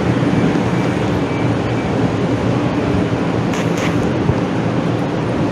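Steady running rumble of a Calgary Transit CTrain light-rail car in motion, heard from inside the car, with a low hum under a level noise.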